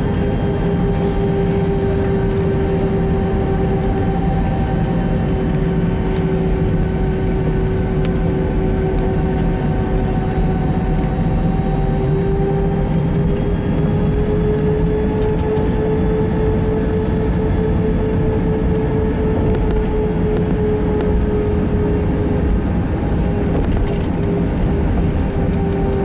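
Steady cabin drone of an Airbus A321-200 taxiing, heard from inside. A hum runs over the rumble, and its pitch rises slightly about 13 seconds in and settles back near 22 seconds.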